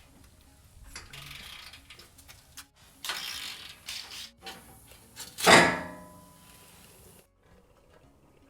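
Ratchet and tool clicks and rattles while loosening the bolts of a car's under tray, with one loud ringing metallic clang about five and a half seconds in.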